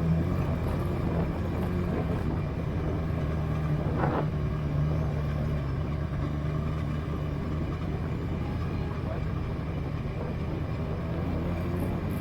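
Motorcycle engine running steadily at an even speed while riding, with a brief tick about four seconds in.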